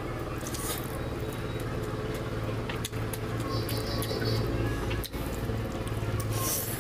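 Close, wet chewing and lip-smacking from eating a curried chicken leg by hand, many small sticky clicks, over a steady low hum.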